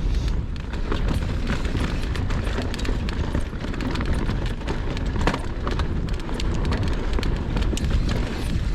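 Wind buffeting the microphone as a mountain bike rides down a dirt trail, with a steady low rumble and frequent small clicks and rattles from the tyres and bike over the ground.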